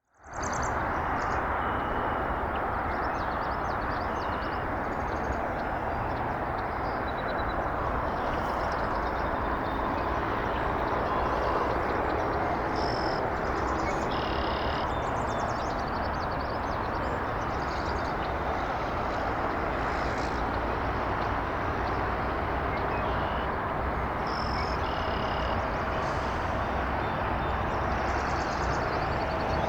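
A steady low rushing background noise with short, high bird chirps and twitters scattered over it.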